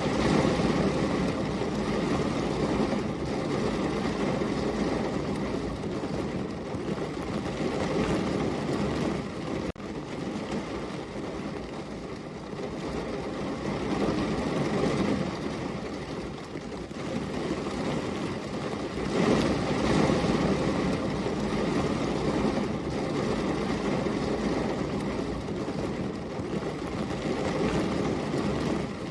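Heavy rain falling, a steady rushing noise that swells and eases every few seconds, with a brief sudden dip about ten seconds in.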